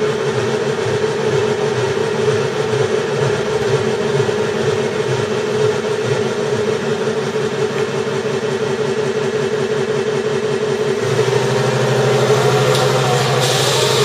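Electronic engine sound generator in a 1/6-scale Tiger tank model, playing a simulated tank engine through its speaker. The sound comes on suddenly and runs with a steady pulsing idle, changing character about eleven seconds in.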